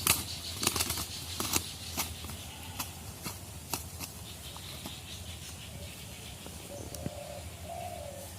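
A dove flapping its wings, with sharp knocks and rattles, most of them in the first four seconds. A short low coo comes near the end.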